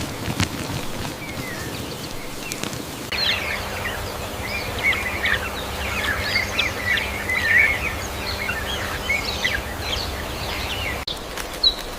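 Many birds chirping together, a dense run of short high chirps over a faint steady hum, starting abruptly about three seconds in and cut off about eleven seconds in.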